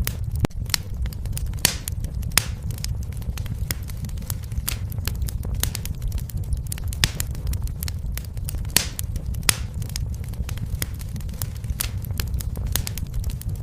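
Fire in a fireplace crackling: irregular sharp pops and snaps, a few louder than the rest, over a steady low rumble of the flames.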